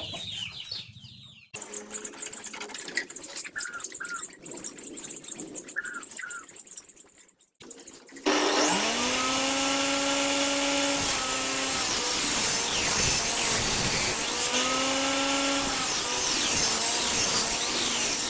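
Homemade table saw's motor starting about eight seconds in, its hum rising quickly to speed and then running steadily. Twice the steady tone gives way to a noisier sound as the blade cuts wood, then returns.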